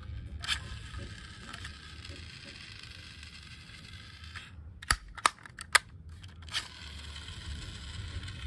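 A few sharp clicks in quick succession about five seconds in, over a steady low hum.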